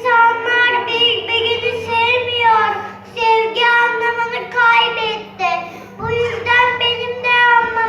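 A child's voice singing a melody over a sustained instrumental accompaniment.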